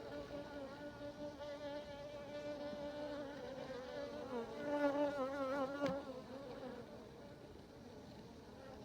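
Honeybee buzzing close to the microphone: a steady pitched drone that wavers in pitch and grows loudest about five seconds in, with one sharp tap just before it fades away.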